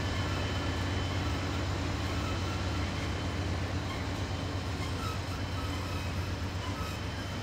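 Norfolk Southern freight train rolling by, a steady low rumble from the cars that slowly fades.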